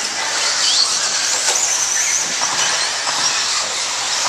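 Radio-controlled stadium trucks racing on the track: a steady high-pitched motor whine that wavers up and down as they speed up and slow, over a hiss of tyres and running gear.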